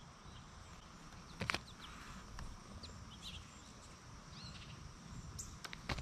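Faint outdoor background with a few distant bird chirps. There is a short knock about one and a half seconds in and a few sharp clicks near the end.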